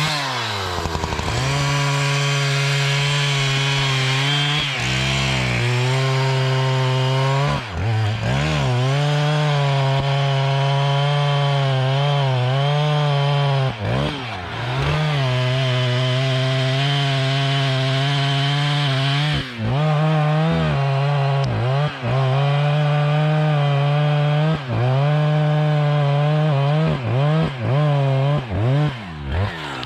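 Two-stroke petrol chainsaw running at high revs, cutting wood. Its pitch dips briefly and climbs back several times as the revs drop and pick up again.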